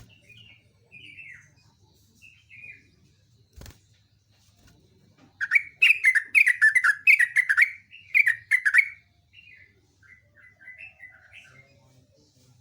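Yellow-vented bulbul (trucuk) singing: a few soft, scattered chirps, then about halfway through a loud, rapid, bubbling run of notes lasting about three and a half seconds, followed by softer chirps again.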